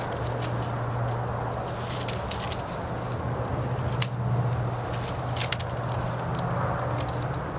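Willow branches rustling as they are handled and bent, with a few sharp cracks about two, four and five and a half seconds in, over a steady low hum.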